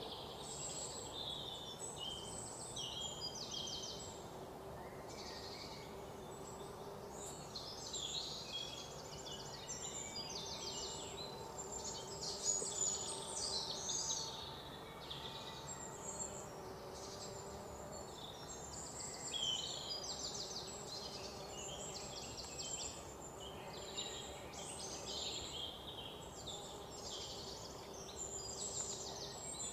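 Outdoor ambience of several birds chirping and trilling, calls overlapping and repeating throughout, over a faint steady hum.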